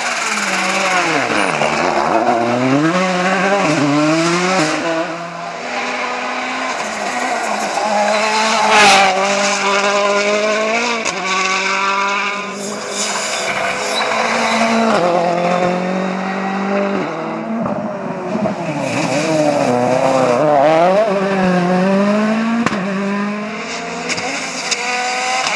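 World Rally Cars at speed on a stage, engines revving hard and dropping back through gear changes, one pass after another, with tyres squealing. A short sharp bang about nine seconds in.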